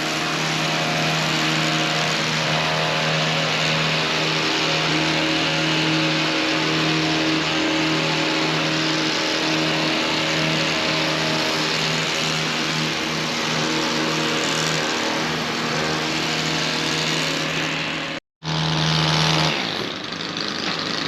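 Gas-powered hedge trimmer engine running steadily at high speed. It cuts out for a split second near the end, then carries on a little lower.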